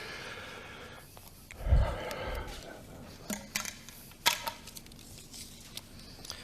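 Handling sounds from a draw: scattered clicks and knocks of plastic draw balls being picked from a bowl and opened, with a dull thump about two seconds in.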